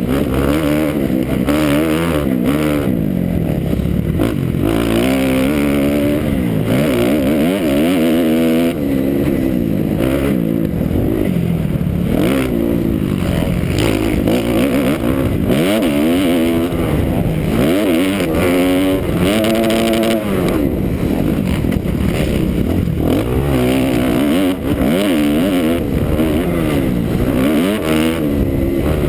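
2009 Kawasaki KX250F's four-stroke single-cylinder engine under load, revving up and falling back over and over as the rider works the throttle and shifts gears.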